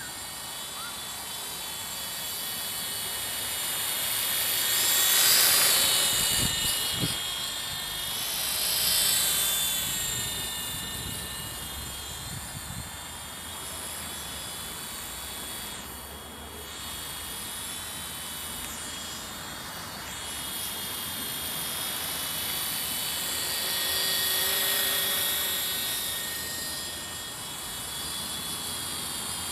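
WLtoys Sky Dancer radio-controlled single-rotor helicopter in flight, its electric motor and rotor making a steady high-pitched buzz. The buzz swells and fades several times as the helicopter moves about.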